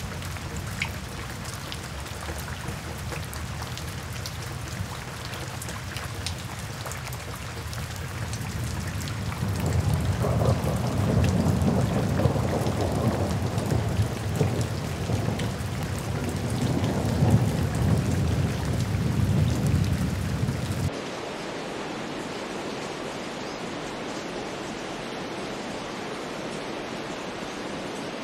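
Steady rain with scattered close drops, joined about a third of the way in by a long low rumble of thunder that swells and rolls for roughly ten seconds. The rumble cuts off abruptly about three-quarters of the way through, leaving a smoother, even rain hiss.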